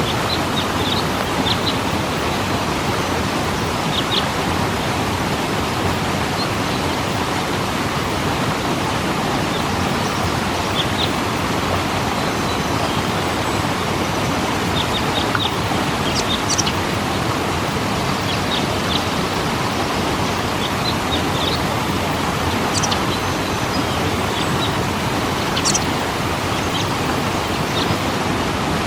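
Waterfall rushing in a steady, even roar of falling water, with birds chirping briefly now and then above it.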